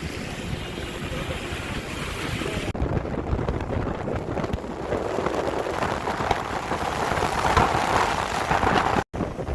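Heavy rain falling, with wind buffeting the microphone. The sound changes abruptly about three seconds in and cuts out for an instant near the end.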